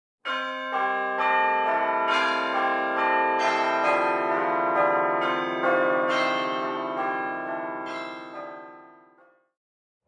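A slow opening jingle of bell-like chime notes, each struck note ringing on under the next, fading out about nine seconds in.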